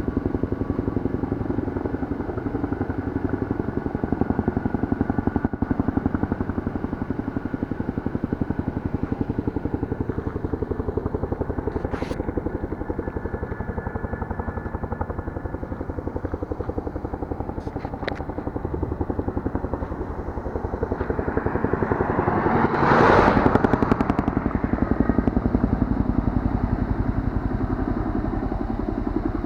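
Kawasaki Z1000 motorcycle's inline-four engine running steadily while riding, with wind rush. A louder rushing swell comes about 23 seconds in.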